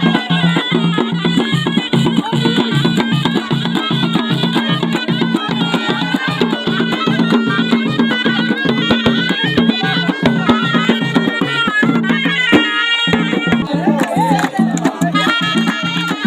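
Ghaita, the Moroccan double-reed shawm, playing a fast, ornamented folk melody over a steady pulsing beat, with a brief break in the low part about twelve seconds in.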